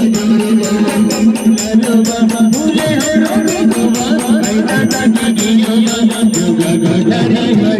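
Folk band music: a fast, even percussion beat with rattling, jingling strokes over a steady held drone note and a wandering melody.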